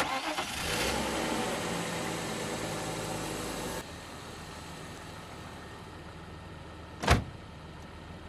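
BMW E39 520i's 2.0-litre inline-six running evenly, with no misfire and no lifter tick. About four seconds in it drops to a quieter steady level, and a brief loud whoosh comes near the end.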